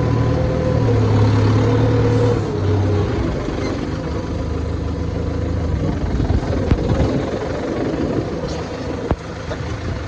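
Farm tractor engine running steadily as it drives, with a sharp knock about two-thirds of the way through.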